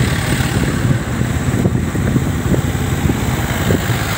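Motorcycle engine running while riding along the road, a steady low rumble.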